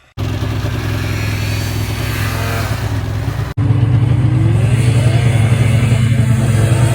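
Yamaha Phaser snowmobile's two-stroke twin engine running and being revved, cutting in abruptly; after a sudden break a little past three seconds it is louder, its pitch rising and falling with the blips of throttle.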